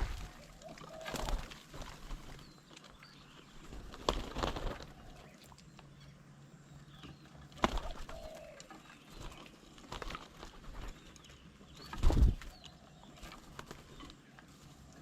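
Birds at a feeding table: irregular wing flaps and knocks as birds land, hop and peck, the loudest about twelve seconds in, with faint chirps and a low dove-like coo between them.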